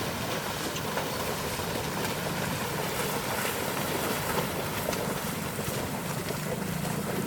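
A motor running steadily with a low hum under a constant rushing hiss.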